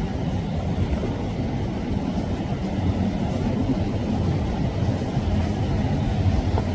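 Boat engine running steadily, a low rumble with a steady hum.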